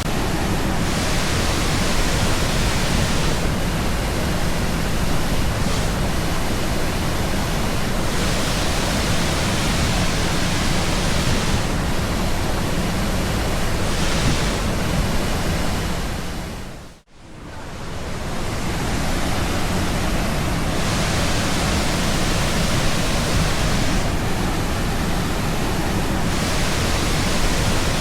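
Lundbreck Falls' waterfall pouring steadily, a loud even rush of water. About seventeen seconds in, the sound drops out briefly and comes back.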